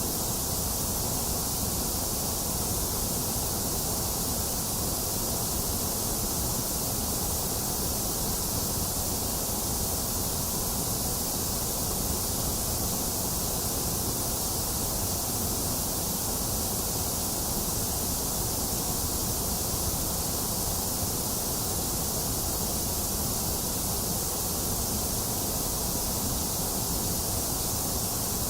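Steady synthetic white-noise hiss with no change in level or texture. It is brightest in the high range, with a fuller low rumble beneath and a thinner middle.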